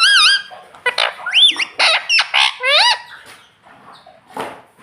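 Pet ring-necked parrot giving a rapid series of loud, shrill squawks that swoop up and down in pitch over the first three seconds. After that it goes quieter, with one short sharp sound near the end.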